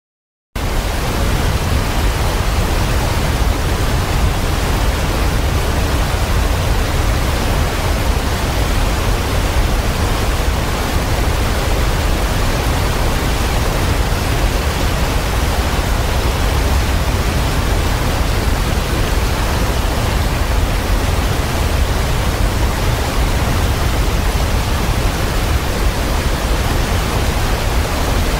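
Waterfall's steady roar of falling water, deep and even, cutting in abruptly about half a second in after dead silence.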